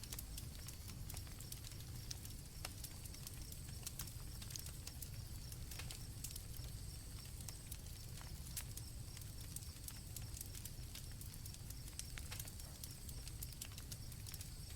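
Night campfire crackling with irregular sharp pops over a low steady rumble, with crickets chirring steadily in the background.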